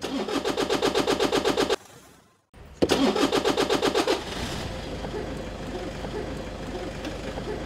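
Car engine cranked by its electric starter motor, a rapid rhythmic churning of about seven beats a second that stops after under two seconds without the engine catching. It is cranked again about a second later, and this time it fires and settles into a steady idle.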